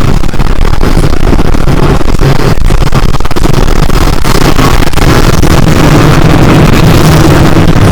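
Yamaha YZ125's 125 cc two-stroke single-cylinder engine running steadily and loudly under way.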